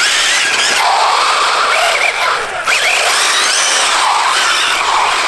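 Arrma Typhon TLR Tuned RC buggy's 1650kv brushless motor, running on 6S, whining up and down in pitch as it accelerates and slows. Its tyres hiss and scrub on the asphalt throughout.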